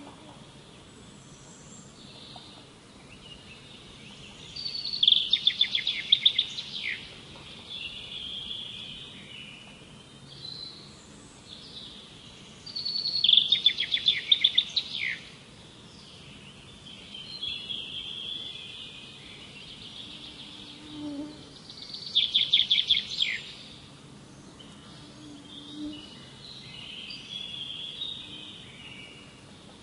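Songbirds singing: one bird repeats a loud song phrase of rapid high notes three times, about every eight or nine seconds, with softer chirps from other birds between.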